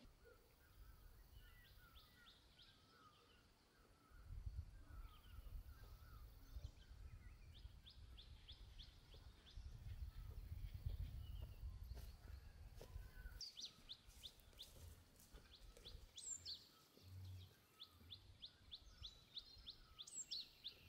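Faint birdsong: wild birds giving repeated short high chirps and quick runs of notes, with a few sharp downward whistles. A low rumble runs underneath from about four seconds in to about thirteen seconds in.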